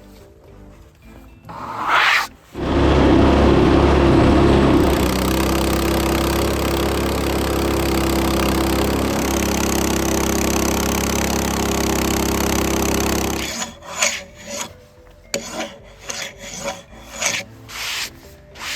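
Portable bandsaw sawmill running with its blade cutting through a black walnut log: a loud steady machine sound that starts a few seconds in, runs for about eleven seconds and stops abruptly. Irregular short scraping and rubbing sounds follow.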